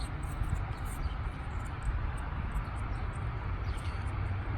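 Outdoor background noise: a steady low rumble with scattered faint high ticks.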